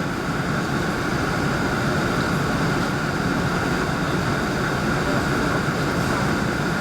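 Steady cabin noise inside an Airbus A380 airliner: an even hiss and rumble from the running engines and air system, unchanging throughout.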